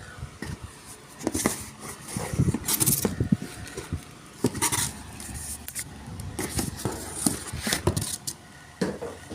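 Packages and products being handled and unpacked: irregular knocks, clinks and scrapes of boxes and containers set down and moved about.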